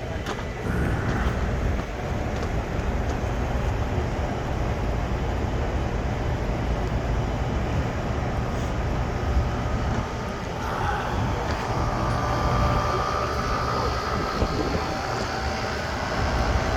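Heavy engine running steadily with a low rumble. A whine joins it about eleven seconds in.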